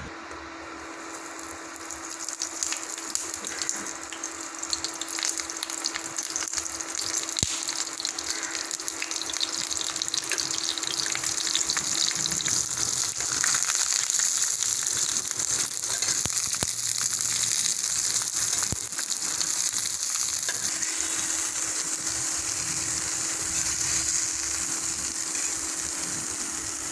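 Masala-coated fish wrapped in banana leaf frying in hot oil: a steady sizzle with many small crackling pops that builds up about two seconds in.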